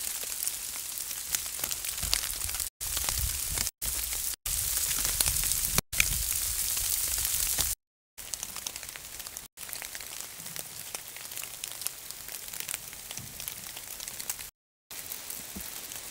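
Rain and wind picked up by an AudioMoth field recorder: a dense hiss of rain with scattered drop ticks, and low wind rumble in the first half. The sound cuts out briefly several times, and after about eight seconds it carries on quieter.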